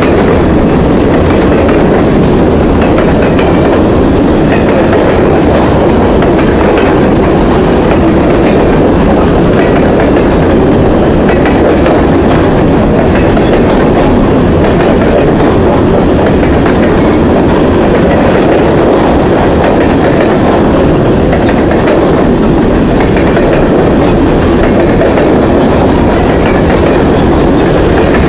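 Long freight train of covered grain hopper cars passing close by: steady, loud noise of steel wheels running on the rails, unbroken throughout.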